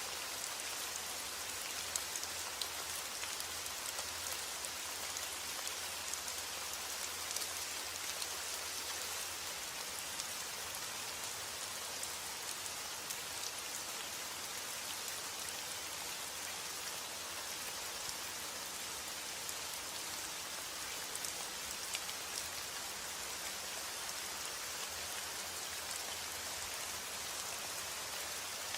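Steady rain falling on a surface, an even hiss with scattered sharper drop hits.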